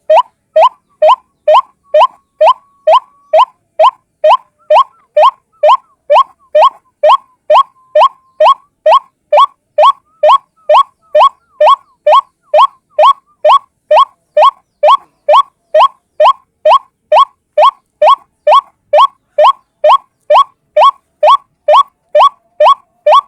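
White-breasted waterhen (ruak-ruak) calling, a single bird repeating one short rising note about twice a second in a steady, unbroken rhythm.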